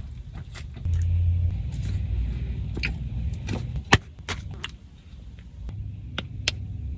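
Steady low rumble of an idling car, heard inside the cabin, louder for about a second near the start, with a few sharp clicks.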